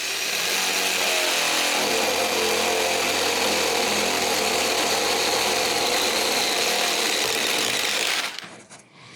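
Drill running under load as a 1¼-inch spade bit bores through wood, a steady loud whir that stops about eight seconds in.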